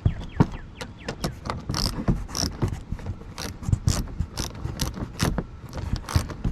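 Socket ratchet clicking as a 10 mm bolt is turned, in irregular runs of sharp clicks, roughly three to five a second.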